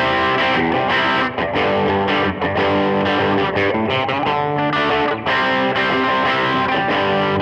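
Les Paul electric guitar played through Universal Audio's virtual Nobels ODR-1 overdrive plugin into a virtual Vox AC30 amp with reverb: a continuous overdriven riff of chords and notes.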